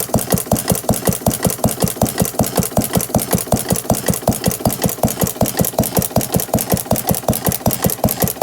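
1910 Paige cream separator engine running steadily at its governed speed, a rapid, even beat of about five strokes a second.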